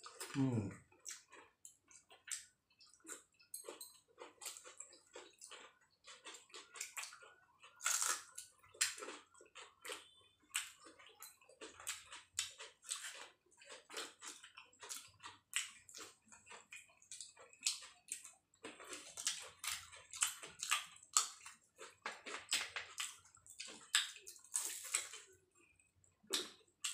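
People chewing and crunching fried cauliflower singaras (samosas): many short, irregular crisp crackles and mouth smacks.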